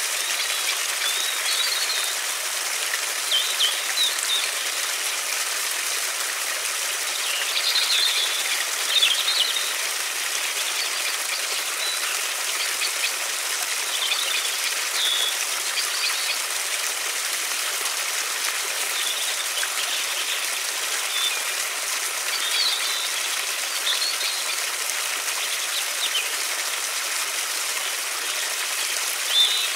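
River water rushing steadily, with small birds chirping in short bursts every few seconds over it.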